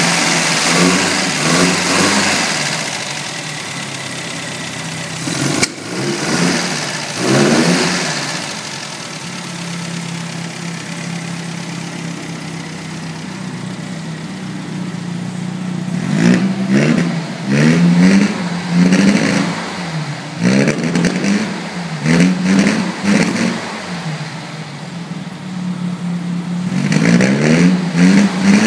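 The 1948 MG TC's four-cylinder engine, running on a cold morning. It idles steadily and is revved up and down again and again: a few blips early on, a run of about six quick revs in the middle, and more near the end.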